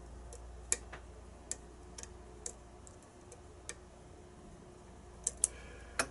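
Light sharp clicks at irregular intervals, about a dozen, from a lock pick working the pins inside a Daz Evers challenge lock.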